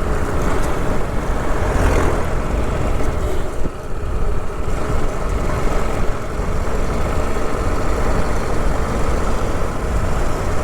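Riding noise of a TVS Apache RR 310 motorcycle: its single-cylinder engine running under a steady rush of wind and low rumble.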